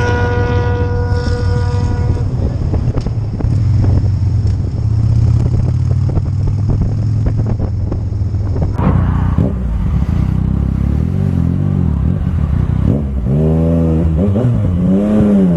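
Motorcycle riding sound: a steady engine drone and wind rumble, with a steady pitched tone held for about two seconds at the start. After a cut, the engine is revved up and down several times near the end.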